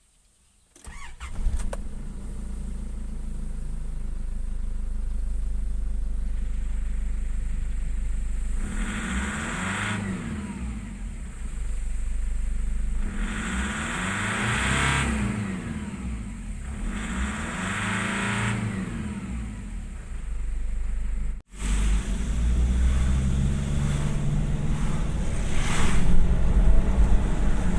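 Nissan Patrol's ZD30 3.0-litre four-cylinder turbo diesel starting and catching about a second in. It then runs, revved up and let back down three times, and carries on running after a brief break near the end.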